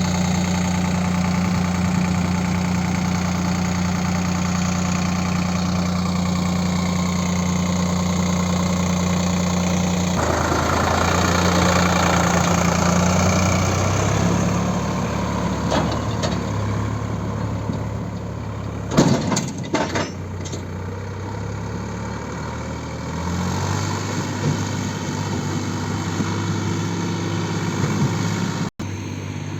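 Diesel engine of a tractor or backhoe loader running, its tone shifting with load about ten seconds in and again later, with a few sharp knocks about two-thirds of the way through.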